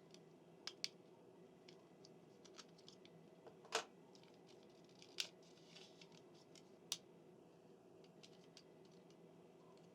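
Faint, scattered clicks and ticks of small plastic parts as an N-gauge model railcar body is unclipped by hand, its latching claws being released through the holes in the roof; the loudest click comes just before the middle.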